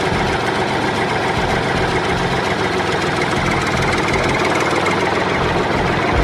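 Tractor engine running steadily at idle, with a low, even chugging.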